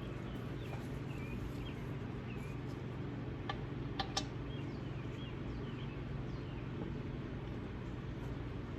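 Steady low hum with faint high chirps throughout, and three light clicks from transmission parts being handled, about three and a half to four seconds in.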